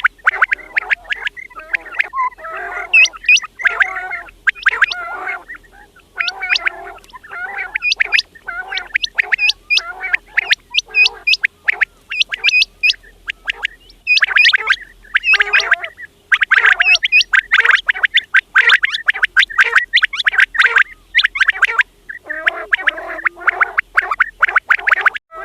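Quails calling: rapid runs of short, sharp chirping notes that come in bursts with brief pauses between them.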